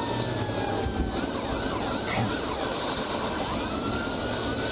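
Police car siren in a slow wail, its pitch falling and then rising again near the end, over steady road and engine noise from a car in pursuit.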